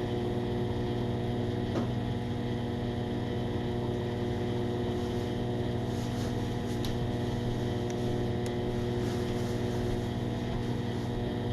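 Microwave oven running, a steady hum with a few faint ticks, as it heats an Angry Mama steam cleaner inside.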